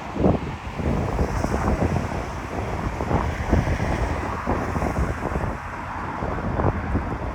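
Strong gusty wind buffeting the microphone: an uneven low rumble that swells and drops in irregular gusts.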